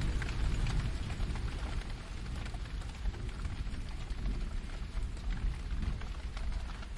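Steady rain with fine pattering drops. A low rumble of distant thunder dies away over the first couple of seconds.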